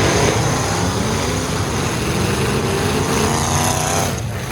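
Full-size derby truck engines running and revving, several at once, their pitches rising and falling.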